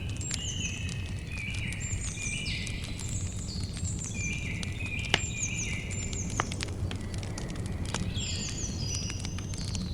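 Campfire crackling with scattered sharp pops, the loudest about five and six and a half seconds in, over a steady low rumble of the fire. Birds sing high and repeatedly in the background.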